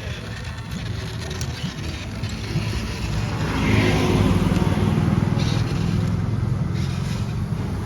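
Toy RC tractor running, a pulsing engine-like drone that gets louder about three and a half seconds in.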